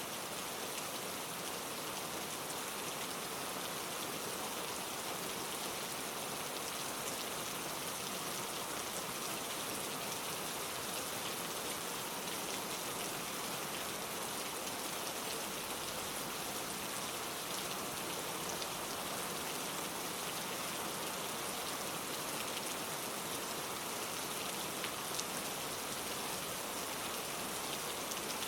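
Steady rain falling in a forest, an even hiss of many drops with a few faint individual drop ticks.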